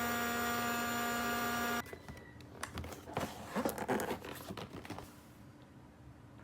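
A loud, steady electronic tone made of several pitches that cuts off suddenly after about two seconds, followed by light clicks, taps and crinkling of plastic toy packaging being handled.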